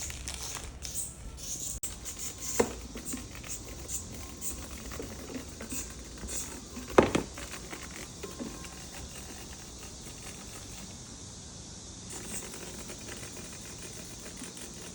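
Scattered light clicks, taps and rustling from handling a plastic bug container as a cicada is put inside, with one sharper knock about seven seconds in.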